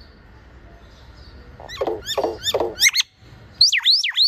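Hill myna calling: a few short chattering calls about two seconds in, then a rapid run of loud whistled notes that sweep down and back up near the end.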